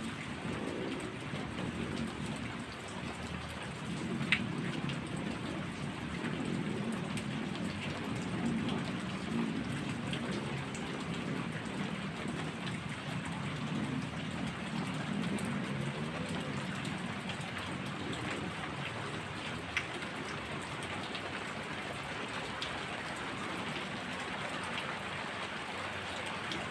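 Heavy rain falling steadily, with a low rolling rumble of thunder under it and a few sharp taps of drops, the clearest about four seconds in.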